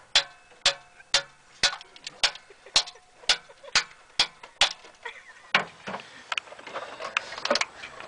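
Repeated hard blows striking the metal of a wrecked car, about two a second and each ringing briefly, giving way about five seconds in to a quicker, irregular clatter of metal.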